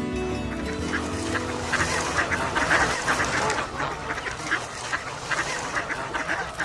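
A flock of waterfowl, ducks and geese, calling over one another in a dense, continuous chatter that is busiest around the middle. Music fades out in the first second or so.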